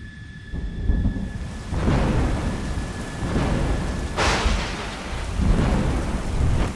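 Thunderstorm sound effect: thunder rumbling in several rolling swells over steady rain, with a sharp thunderclap about four seconds in.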